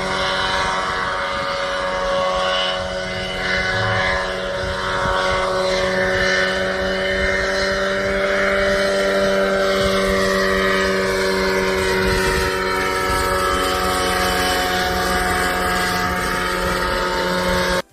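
Engine of a homemade light helicopter running steadily, its engine tones drifting slightly up and down in pitch over a rushing, wind-like noise; it cuts off abruptly at the very end.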